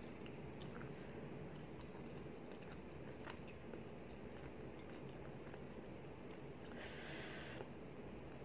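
Quiet chewing of a mouthful of rice and curry, with a few faint mouth clicks. About seven seconds in, a short hiss stands out as the loudest sound.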